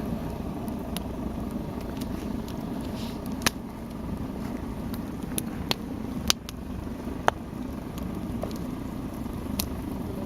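Campfire burning: a steady low rumble with sharp pops and cracks from the burning wood at irregular intervals, the loudest about three and a half, six and seven seconds in.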